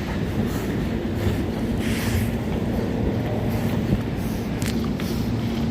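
Steady low mechanical rumble with a constant hum running through it, the machinery noise of an underground subway station, with a couple of faint clicks near the end.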